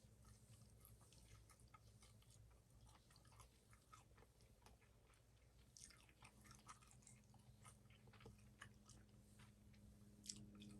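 Faint close-miked chewing: small irregular mouth clicks, smacks and crunches of a person eating, over a steady low hum. A faint steady tone joins about halfway through.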